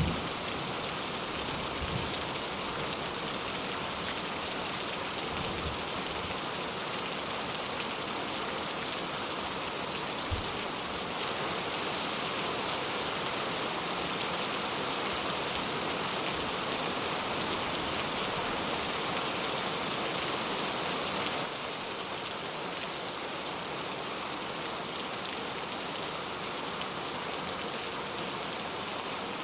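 Steady rain falling in a dense, even patter, with a few heavier drops knocking now and then. It eases slightly about two-thirds of the way through.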